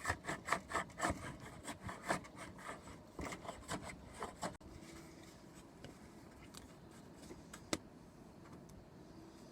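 Hand rubbing or rasping strokes on the wood of an oar under repair, quick and back-and-forth at about three to four a second, with a short break partway. The strokes stop abruptly about halfway through, and a single sharp tap follows near the end.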